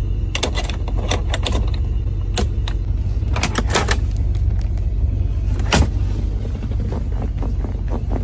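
A car engine's deep steady rumble, with irregular sharp cracks scattered through it.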